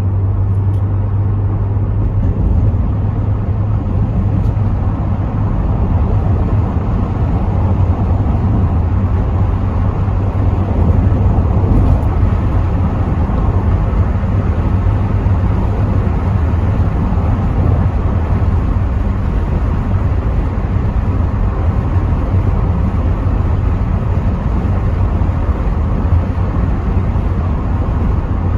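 Rover 75 V6 estate driving steadily: a constant low engine drone under tyre and wind noise, heard from inside the cabin with the windows part open.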